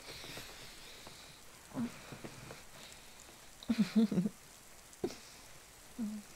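Soft steady rain in the background. A few short, quiet voice sounds sit over it, the loudest just before four seconds in.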